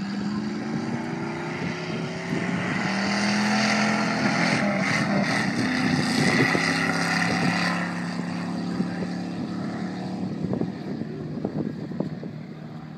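A vintage hot rod's engine running as the open car drives along the beach sand past the listener, growing louder to a peak about halfway through and then fading away. Wind buffets the microphone throughout.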